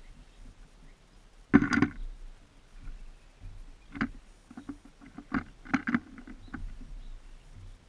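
Birds at a seed feeder just beside the camera: a series of irregular taps and knocks as they land, hop and peck. The loudest is a short cluster of knocks about one and a half seconds in, with lighter taps later on.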